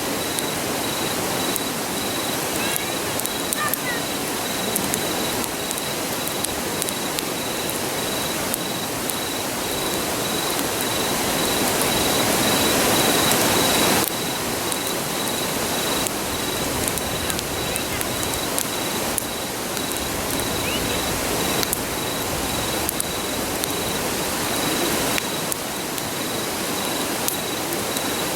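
Steady rushing of a nearby river. It swells for a few seconds and drops off suddenly about halfway through. Over it, a wood campfire crackles in small scattered pops, and an insect keeps up an even, high-pitched pulsing chirp.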